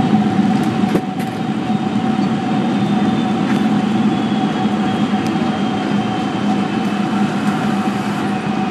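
Airliner cabin during the landing rollout just after touchdown: a loud, steady roar of the engines and the runway as the aircraft brakes hard, with a few light rattles. A faint high whine falls slowly in the second half.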